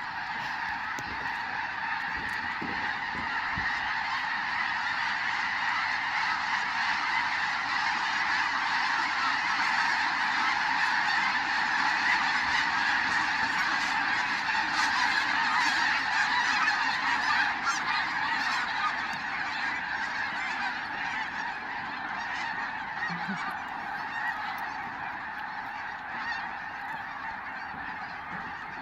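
A huge flock of snow geese calling all at once: a dense, unbroken chorus of honks that swells to its loudest about halfway through and then slowly fades.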